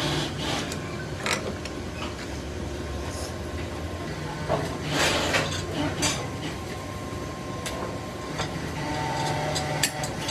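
Factory machinery running with a steady low hum, with scattered metallic clicks and a short burst of hissing noise about halfway through.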